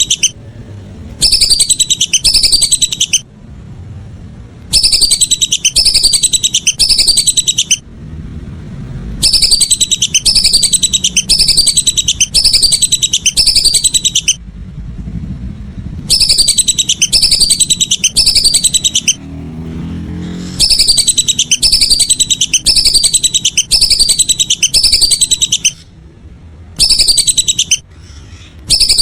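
Lesser whistling ducks (belibis) calling in phrases of rapid, high-pitched falling whistles, each phrase a few seconds long, repeated after short pauses. The calls are very loud and close, over a low background rumble.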